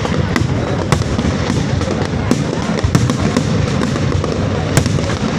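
Fireworks display: frequent sharp bangs at irregular intervals over a continuous low rumble of bursts.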